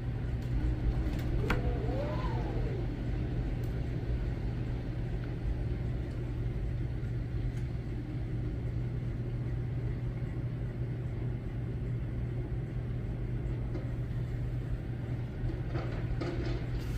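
Strong wind gusting, a steady low rumble of wind buffeting the microphone. A brief wavering high note sounds about two seconds in.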